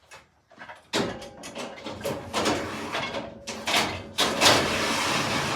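MDF slab being slid along and across rails: scraping and sliding noise with several knocks from about a second in, turning into a steadier slide near the end.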